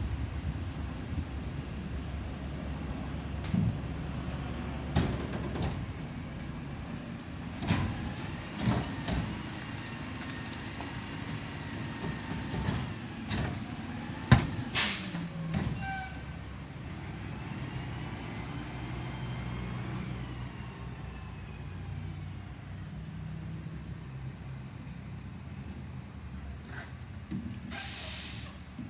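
Garbage truck engine running, with a series of sharp knocks and bangs, a rising and falling whine in the middle, and a short air-brake hiss near the end.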